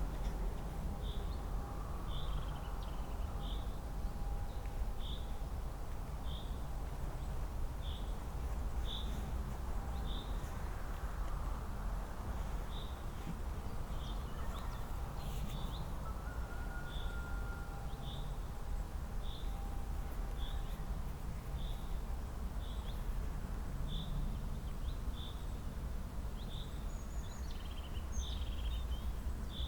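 A bird repeating a short high chirp about once a second, over a steady low rumble.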